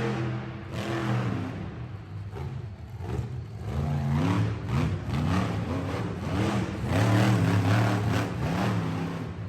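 Monster truck engine running, then revved up and down again and again in quick blips from about four seconds in.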